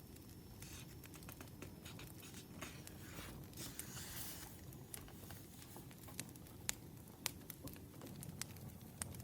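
Burning firewood crackling, with sparse sharp pops over a low steady background, and a brief papery rustle about four seconds in.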